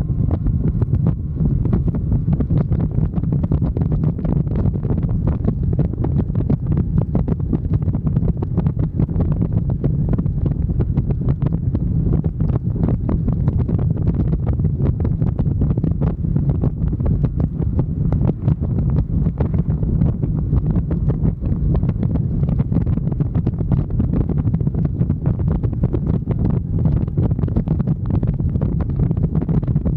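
Wind buffeting the microphone on a moving motorcycle: a steady, loud low rumble with constant crackling gusts.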